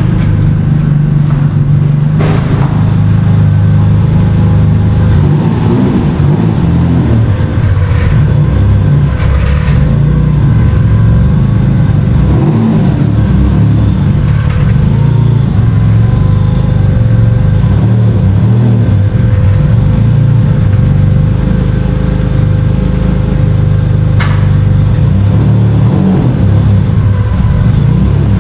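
Subaru EG33 3.3-litre flat-six engine, turbocharged and swapped into an STI, running steadily at low revs. A few sharp clicks or knocks are heard along the way.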